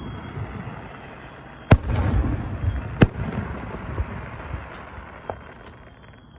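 Aerial firework shells bursting overhead. A loud bang comes a little under two seconds in, followed by a rumble, then another sharp bang about a second later and fainter pops after.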